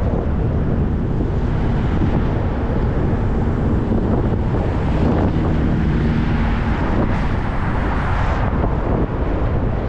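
Steady wind rumble on the microphone of a moving bicycle rider, with road and traffic noise underneath.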